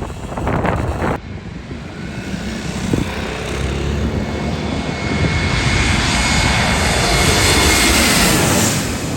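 Airplane engines passing close by: the engine noise builds steadily to its loudest near the end, with a faint whine slowly falling in pitch. Wind buffets the microphone in the first second.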